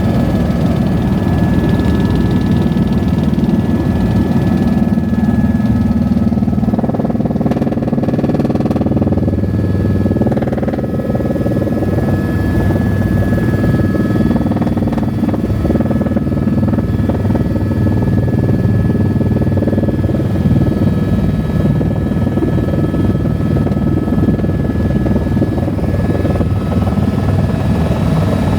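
Helicopter in flight heard from inside the cabin: a steady, loud drone of rotor and turbine, with a thin high whine held at a constant pitch.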